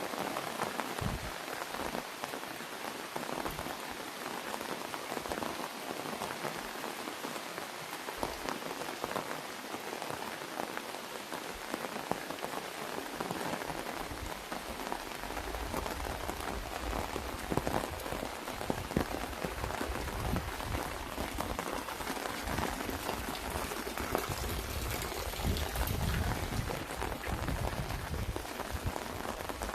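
Rain falling on an umbrella: a steady hiss dotted with many separate drop taps. A low rumble joins about halfway through.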